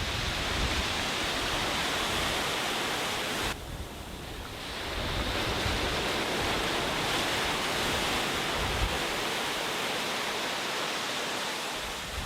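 Sea waves washing onto a beach: a steady rush of surf that drops away suddenly about three and a half seconds in, then swells back up.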